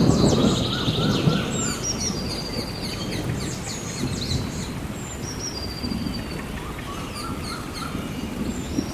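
Rainforest ambience: a low roll of thunder, loudest in the first second or two and then fading, under many birds chirping and whistling over a steady hiss of rain.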